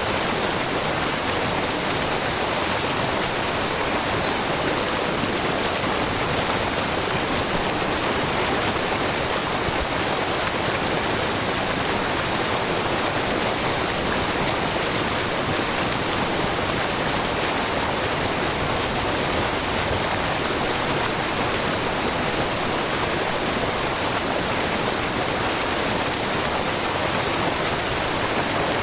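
A low, wide curtain waterfall of spring water spilling over a rock face, with the brook below it babbling; the water rushes steadily and evenly throughout.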